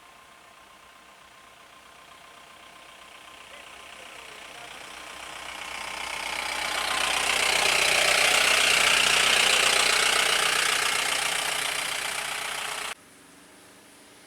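A motor vehicle passing close by: its engine and road noise grow louder over several seconds, peak, and begin to fade before cutting off abruptly.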